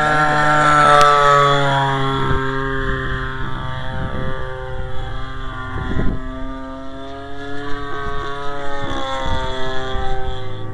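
Homelite 30cc two-stroke string-trimmer engine, converted to power a giant-scale RC plane, running in flight, its pitch rising and falling as the plane passes and the throttle changes. Wind rumbles on the microphone beneath it.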